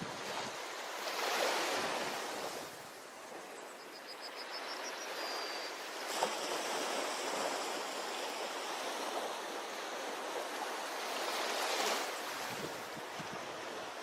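Ocean surf washing onto a beach, a continuous rushing with louder surges of breaking waves about a second in and again near the end. A brief run of high chirps sounds about four seconds in.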